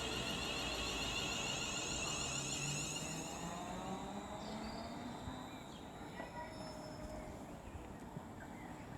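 Electric train whining at the platform, with high steady tones and a lower motor tone rising in pitch, which fade away about halfway through and leave quieter background hiss.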